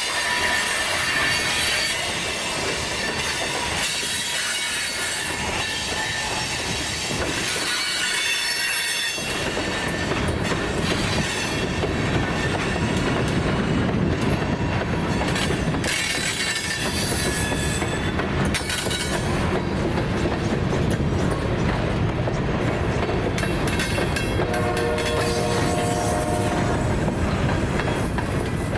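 Freight train rolling past, its wheel flanges squealing high on curved track over a rumble of wheels on rail. The rumble gets louder about nine seconds in.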